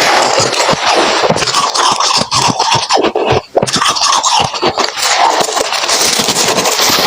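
Freezer frost being chewed close to the microphone: dense, continuous crunching and crackling, with a brief pause about three and a half seconds in.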